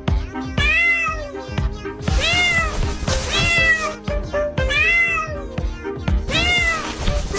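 A cat meowing five times, each meow about a second long, rising and then falling in pitch, over background music.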